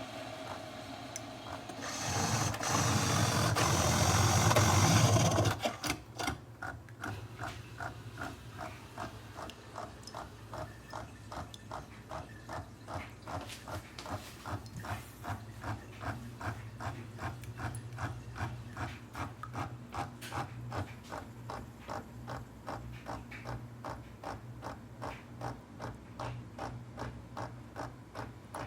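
Single-serve pod coffee maker brewing: a loud hiss for about three seconds near the start, then a steady pulsing of about two to three beats a second over a low hum.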